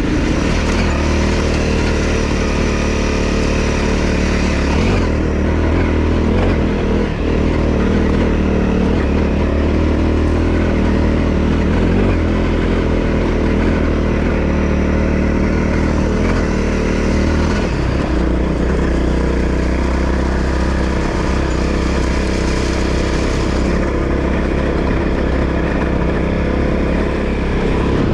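Honda CRF250L's single-cylinder four-stroke engine running steadily under way, its note shifting a few times as the throttle changes.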